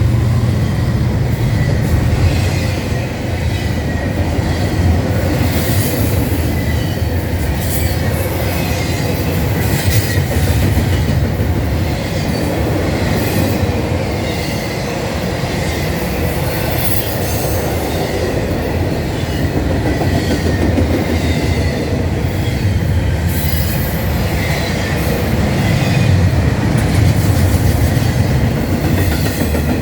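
A Norfolk Southern freight train rolling by, its wheels rumbling and clicking over the rail joints, with faint wheel squeal on and off.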